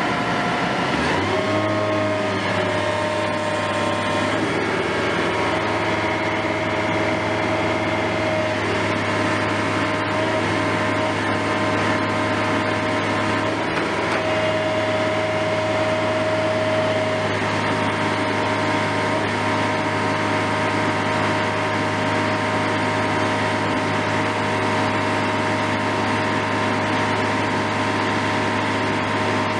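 Heavy construction machinery engine running steadily with a deep hum, its pitch gliding up about a second in and shifting a few more times.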